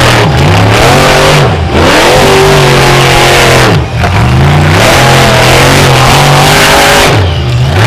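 Monster truck engine revving hard and loud, its pitch climbing and falling as the throttle is worked, with brief drops off the throttle about four times before it comes back on.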